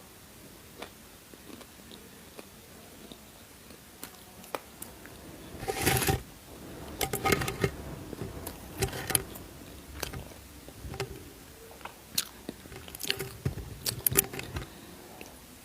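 A person biting and chewing a crunchy snack close to the microphone. A few faint clicks at first, then a run of crisp crunches from about six seconds in until near the end.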